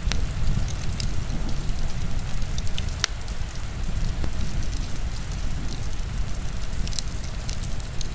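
Heavy rain making a steady low rush, with a wood fire in a fireplace crackling over it in scattered sharp pops, one a little louder about three seconds in.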